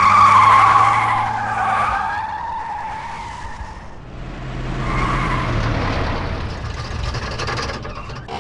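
A car engine running with tyres squealing twice. The first squeal is loud at the start and slides down over about two seconds, the second comes about five seconds in, and the sound cuts off sharply at the end.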